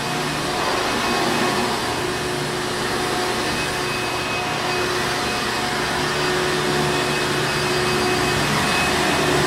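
Hoover Encore Supreme upright vacuum cleaner running steadily: a constant motor whine and airflow hiss with no change in speed.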